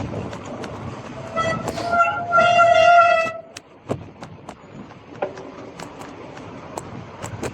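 A vehicle horn sounding: two short toots, then one longer blast of about a second. Underneath runs a steady rushing road noise with scattered sharp clicks and knocks.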